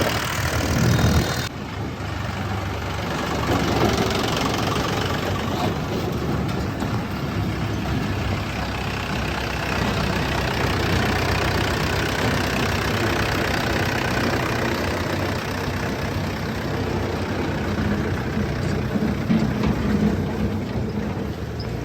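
Heavy diesel engine running at a steady idle-like pace, louder for the first second or so and then changing abruptly.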